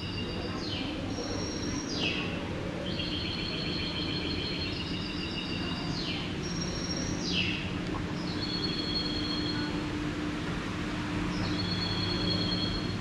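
Birdsong: repeated high trilled phrases and quick falling chirps with short gaps between them, over a steady low hum.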